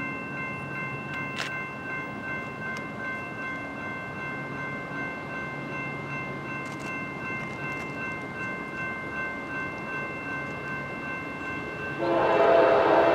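Approaching freight train: a steady, faint high ringing tone over a low rumble, then about 12 seconds in a diesel locomotive's horn sounds loudly and holds.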